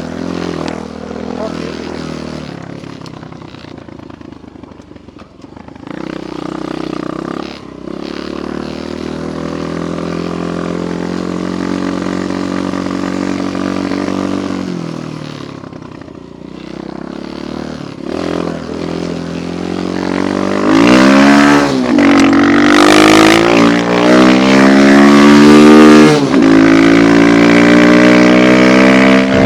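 Small single-cylinder dirt bike engine running under way, fairly low and uneven at first with a couple of dips, then louder from about two-thirds through, revving up and down in repeated rising and falling sweeps.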